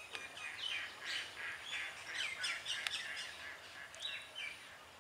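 A small bird singing a rapid series of chirping notes, with a short pause before a last phrase near the end.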